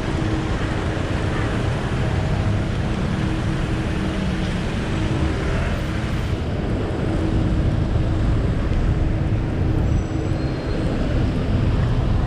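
Steady road traffic on a busy city street: engines running and tyres on the road, with a low rumble throughout.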